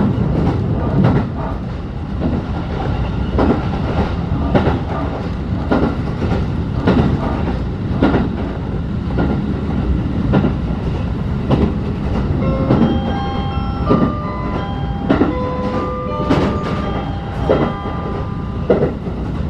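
Inside a locomotive-hauled passenger coach: the steady rumble of the train running, with the wheels clacking over rail joints about once a second. About two thirds of the way through, a short melody of clear tones plays for several seconds over the running noise.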